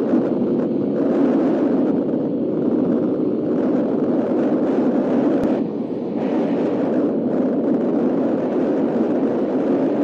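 Suzuki Raider R150's single-cylinder four-stroke engine running hard under way, mixed with wind rushing over the microphone. About halfway through there is a click and the sound dips briefly before picking up again.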